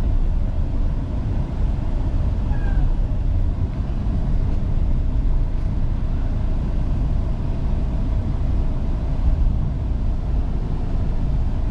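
Semi truck driving, heard from inside the cab: a steady low rumble of engine and road noise, with a couple of faint short squeaks a few seconds in.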